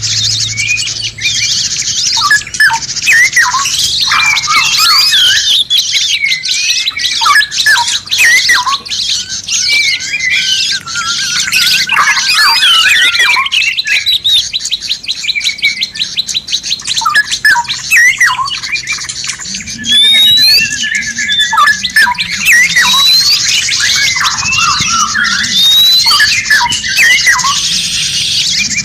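Several songbirds singing at once: a dense, layered mix of whistles, chirps and squawky calls, with a fast, even trill about eleven to thirteen seconds in.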